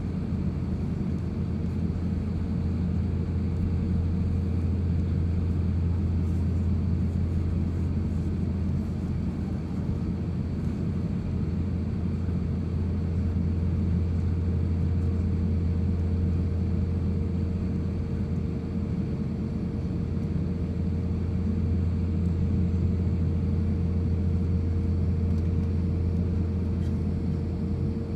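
Steady low drone inside the cabin of an Airbus A350-1000 in the climb, from its Rolls-Royce Trent XWB engines and the airflow, with a faint steady hum above it. The sound is even throughout, with no change in power.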